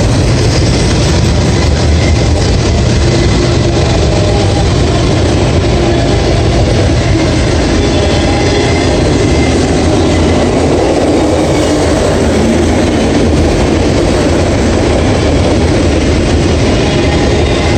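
Autorack freight cars rolling past at close range: a loud, steady rumble and clatter of steel wheels on the rails.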